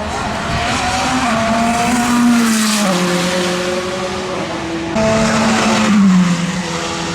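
Twin-turbo V8 of a McLaren 720S GT3X race car running hard at high revs. Its pitch climbs and then drops sharply twice: once near the middle, and again after it jumps back up about five seconds in.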